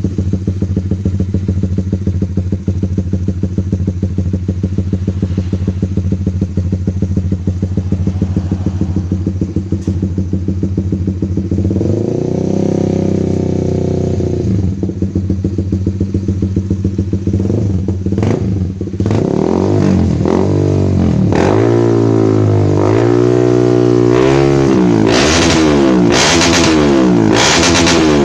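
Honda CBR150's single-cylinder four-stroke engine running through an aftermarket SC Project exhaust: idling steadily, then revved up and down once about twelve seconds in, then blipped in repeated quick revs that come faster toward the end.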